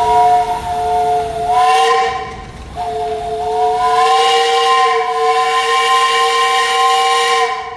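Steam traction engine's whistle blown in two long blasts, a shorter one and then a longer one after a brief break, sounding several notes at once like a chord.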